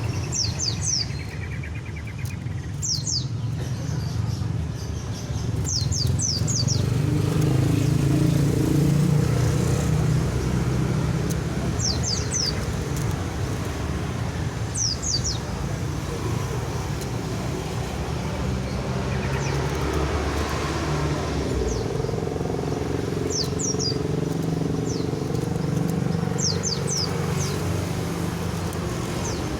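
A bird known in Indonesian as the ekek keling calling: short, high, quickly falling notes in clusters of two to four, repeated every few seconds. A steady low rumble of traffic runs underneath.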